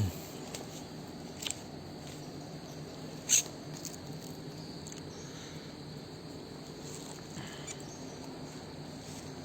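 Short high-pitched bird chirps: a faint one about a second and a half in and a louder one about three seconds in, over a steady low hum. A brief low thump at the very start.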